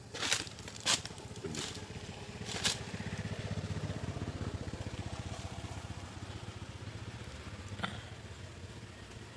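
A small engine running steadily with a fast, even pulse, preceded by a few sharp clicks or knocks in the first three seconds.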